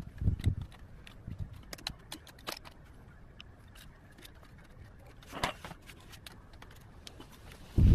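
Hand work with wire and pliers on a plastic chair: scattered small clicks, taps and scrapes, with a sharper knock about five and a half seconds in and heavy low thumps at the very end.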